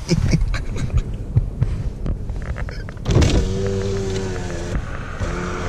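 Scattered clicks and knocks, then about three seconds in a car's electric window motor starts with a steady hum for about two seconds, stops briefly and starts humming again near the end.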